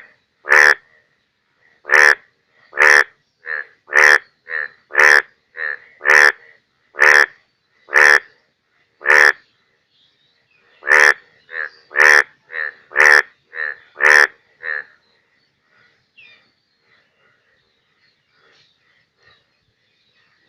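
Indian bullfrog (Hoplobatrachus tigerinus) croaking: a run of loud, short calls about one a second, alternating louder and softer, that stops about 15 seconds in.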